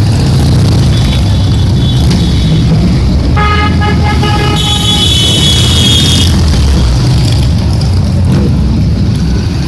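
Motorcycle engines running with a steady low rumble, while a horn honks in the middle, first one tone and then a higher one, each about a second long.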